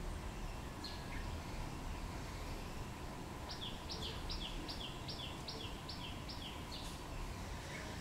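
Small songbird calling: a single high chirp about a second in, then a quick series of about eight downslurred chirps, some two to three a second, from the middle to near the end. A steady low background noise runs underneath.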